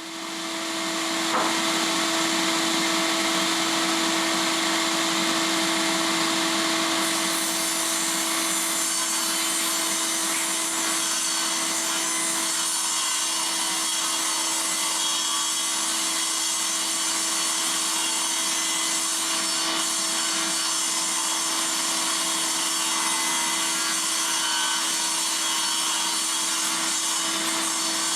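Table saw motor spinning up, then running steadily with a steady hum as the blade cuts through sheet-goods panels.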